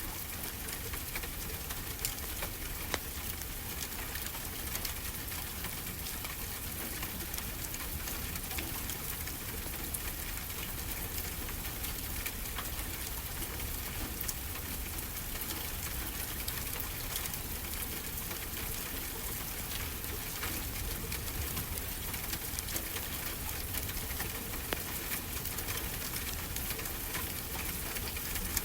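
Wood fire crackling in a fireplace, with many small scattered pops over a steady wash of ocean surf.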